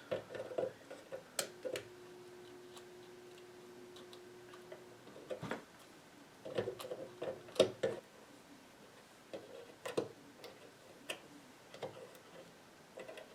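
Irregular clicks and taps of small metal parts and tools handled on a workbench, with a faint steady tone for a few seconds near the start.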